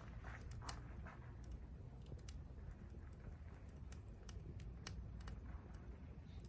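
Campfire crackling: irregular sharp pops and snaps from burning wood, a few each second, over a faint low rumble.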